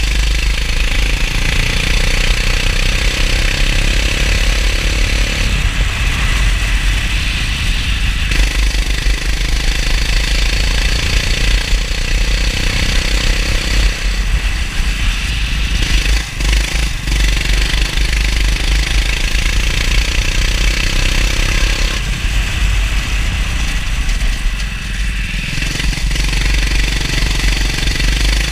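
Kart engine heard onboard, revving up in long climbs and dropping off three times as the kart slows, over a heavy rumble and a steady hiss of wind and wet spray.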